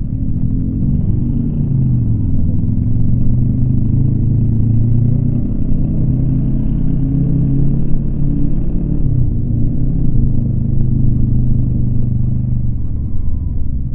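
Yamaha MT-25's 250 cc parallel-twin engine running under way while riding, its pitch holding fairly steady with small rises and dips as the throttle changes and dropping near the end, over a low rumble of wind and road.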